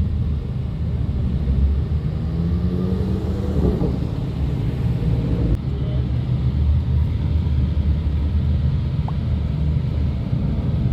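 Low, steady rumble of a BMW's engine and road noise heard from inside the car's cabin, from the back seat.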